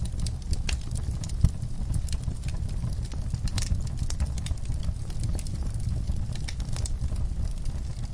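Wood-burning fireplace crackling, with irregular small pops over a low steady rumble of the fire and one sharper pop about a second and a half in.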